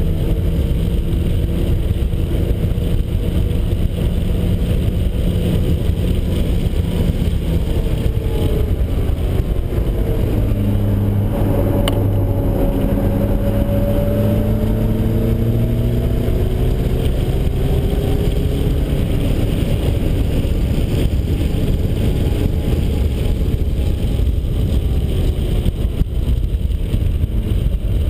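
Turbocharged 1.9-litre four-cylinder of a 1991 Mazda Miata running hard on a race track, its note falling about a third of the way in and then climbing again as it is driven through the gears and corners, over steady road and wind noise.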